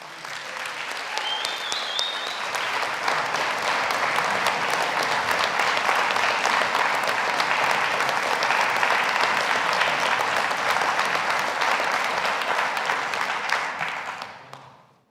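Audience applauding: a long round of clapping that builds over the first couple of seconds, holds steady, and dies away near the end.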